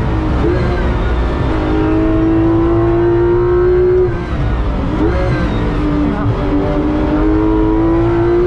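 Porsche 991.2 GT3 RS's 4.0-litre naturally aspirated flat-six under hard acceleration, heard from inside the cabin. Its pitch climbs steadily, drops at an upshift about four seconds in, then climbs again through the next gear.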